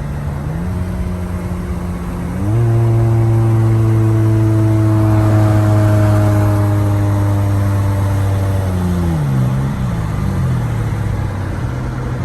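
Car engine running: its pitch steps up about half a second in and again a little over two seconds in, where it gets louder. It holds a steady drone for several seconds, then drops back down about nine seconds in.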